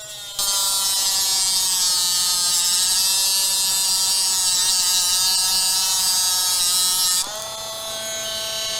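Small handheld electric motor tool running with a steady whine. From under half a second in it gets louder, with a hiss over the whine, as it works into a piece of the craft material. The hiss drops away at about seven seconds.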